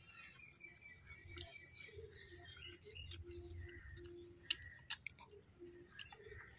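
Eating sounds: chewing and small sharp clicks as fried fish and rice are eaten with the fingers off a banana leaf, with two louder clicks about two thirds of the way through.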